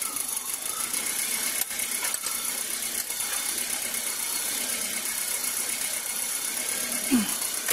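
Car engine idling with the hood open, a steady even noise, with a couple of faint clicks about two seconds in.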